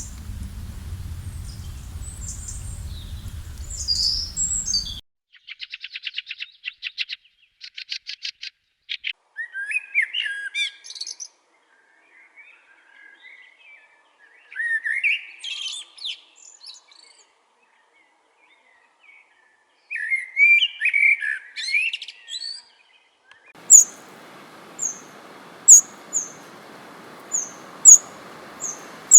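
Songbirds singing in spliced-together recordings. First come high chirps over a low rumble. About five seconds in, a fast, even trill starts, followed by short warbled phrases with quiet gaps between them. Near the end a sharp, high chirp repeats about once a second over a steady hiss.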